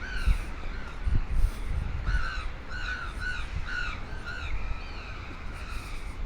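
Birds calling: a quick run of short, repeated calls, several a second, that thins out near the end.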